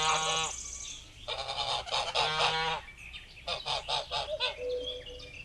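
Goose honking: a series of harsh, nasal calls in three or four bursts with short pauses between them.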